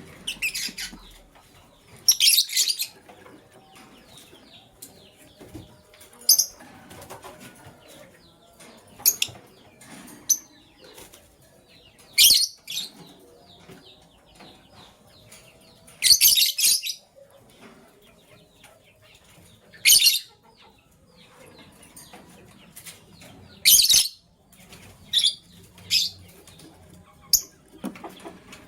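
Lovebird giving short, high-pitched chirps, one every two to four seconds.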